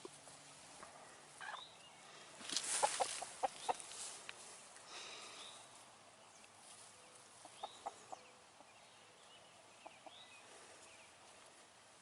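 Chickens clucking and giving short calls while scratching about on the ground, with a brief rustle about two and a half seconds in.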